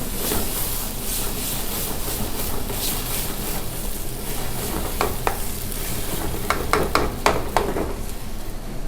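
Tomato puree and spice masala sizzling in a pan over high heat while it is stirred, with several sharp knocks of the spoon against the pan in the second half.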